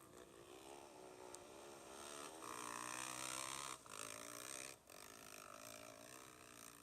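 Trail motorcycle engines running and revving in neutral, their pitch wavering up and down, loudest around the middle.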